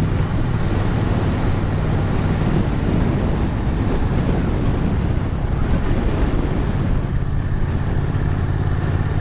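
Motorcycle engine running steadily at cruising speed, with wind and road noise over the microphone.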